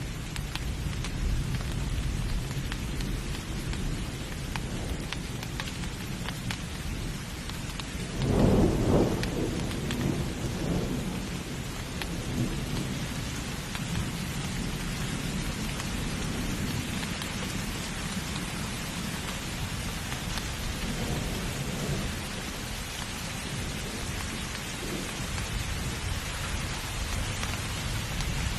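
Steady heavy rain with thunder rumbling in the background; a louder roll of thunder swells about eight seconds in and dies away over the next few seconds.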